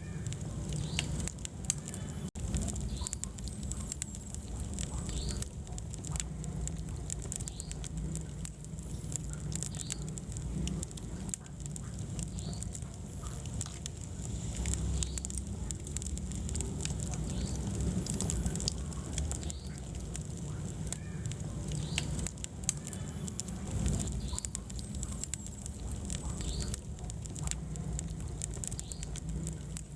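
Wood fire burning in a fireplace: steady crackling with frequent sharp pops and snaps over a low, even flame noise.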